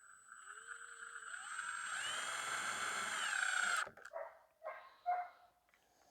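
Cordless drill driving a screw into the wooden fence to mount the latch: a steady motor whine that grows louder, then stops abruptly just under four seconds in. A dog then barks a few short times.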